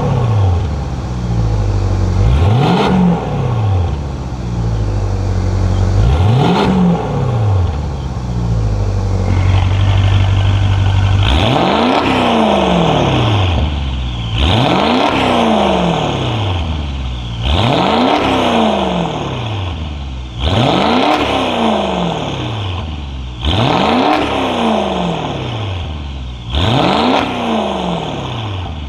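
Maserati Quattroporte GTS 3.8-litre twin-turbo V8 with a Fi Exhaust valvetronic catback and 200-cell downpipes, revved in quick blips. It gives three revs with the exhaust valves closed, then idles steadily. After about eleven seconds come six louder, brighter revs about three seconds apart with the valves open.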